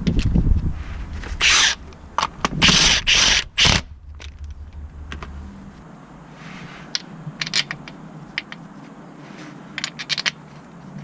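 Tools and metal parts being handled during car repair work: scraping and clinking with a few short, loud noisy bursts in the first few seconds, then scattered light clicks and ticks.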